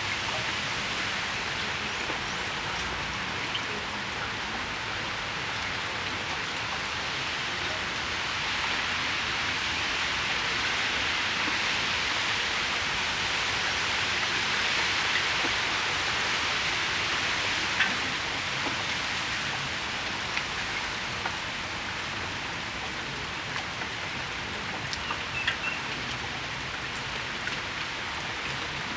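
Steady rain shower falling on and around a patio: an even hiss that swells a little in the middle, with a few louder single drips close by.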